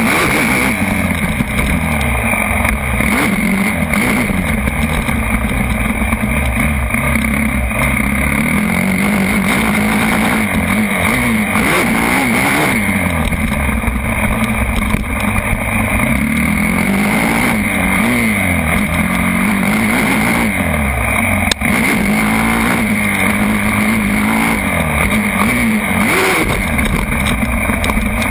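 Motocross bike engine revving up and down repeatedly as the bike is ridden, its pitch rising and falling every second or two.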